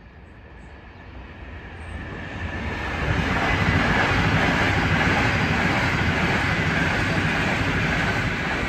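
ETR 485 Frecciargento high-speed electric train passing at speed: a rushing noise of wheels on rails and air that swells over the first three seconds, then holds loud and steady.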